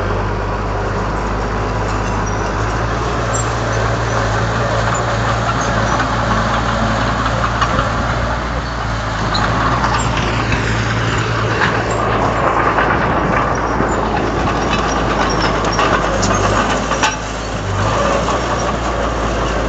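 Komatsu D31 bulldozer's diesel engine running steadily under work, with scattered short clanks and clicks over it.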